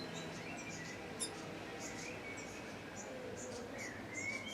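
Small birds chirping: many short, high calls a few times a second, with some lower sliding notes, and one sharp tick about a second in.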